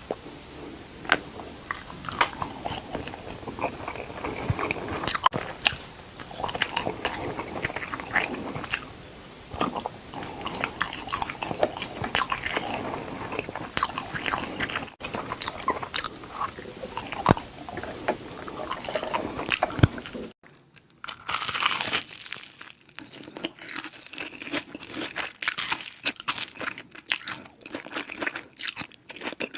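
Close-miked eating: crunchy bites and chewing, with many sharp, crackling crunches. About twenty seconds in the sound cuts briefly and the crunching resumes against a quieter background.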